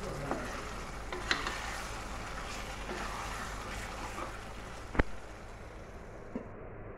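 Spiced loitta shutki paste sizzling gently in oil in a non-stick pan while a plastic spatula stirs and scrapes it, with a few light knocks. One sharp clack about five seconds in.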